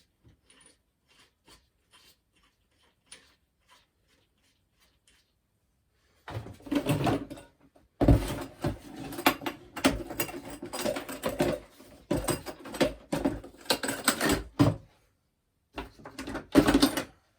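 A few faint ticks, then from about six seconds in, loud bursts of metallic clattering and rattling from bike tools being handled, with short pauses between them and a last burst near the end.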